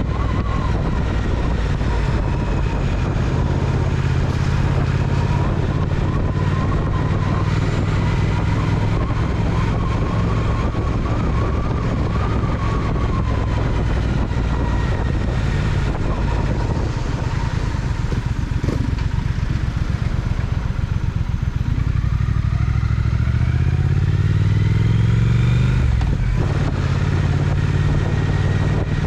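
Triumph Speed Twin parallel-twin motorcycle engine running under way, with wind rushing past. About three quarters of the way through, the revs climb steadily, then drop sharply at a gear change.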